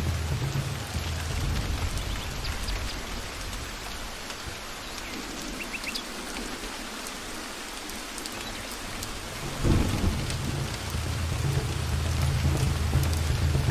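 Steady rain falling in a forest, with scattered sharp drop ticks over an even hiss. A low rumble of thunder fades away in the middle, then comes back with a sudden low thud nearly ten seconds in and rolls on.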